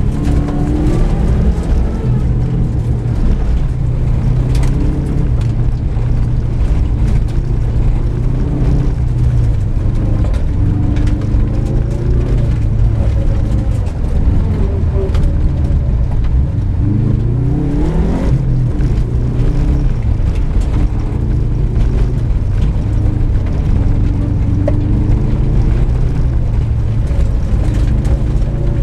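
Car engine heard from inside the cabin, revving up and falling back through gear changes as the car is driven hard on a dirt track, over a steady rumble of tyres on gravel and occasional sharp clicks.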